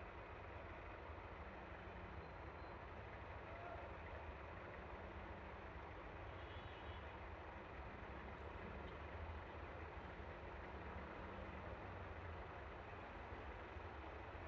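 Yamaha Aerox V3 single-cylinder 155 cc scooter underway at a steady pace: a low, even engine drone mixed with wind and road noise, unchanging throughout.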